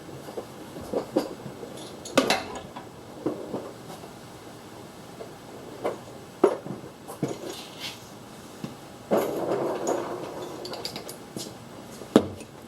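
Hand tools clinking and tapping against metal: scattered sharp knocks as a socket is worked onto a hard-to-reach bolt on a Prius EGR cooler, with a short rustling, scraping stretch near the end.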